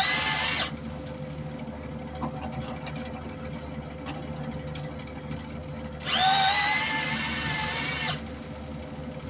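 Wire-feed motor of a SIP MIG welder whirring in two runs: a short burst at the start and a longer one of about two seconds near the end, each rising slightly in pitch as it starts. The owner finds the wire feed still not smooth enough. A steady electrical hum runs underneath.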